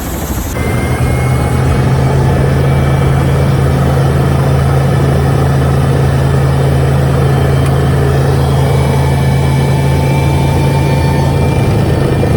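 Eurocopter EC130 helicopter's turbine engine and rotor running, heard from inside the cabin: a loud steady drone with a low hum and faint high whines, swelling over the first two seconds and then holding steady.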